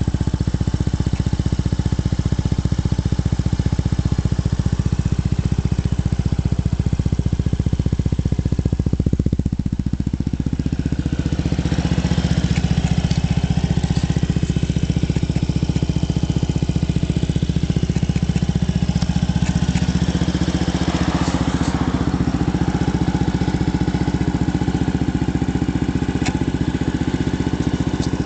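Yamaha BW'S 125 scooter's single-cylinder four-stroke engine idling steadily, its note shifting slightly about ten seconds in.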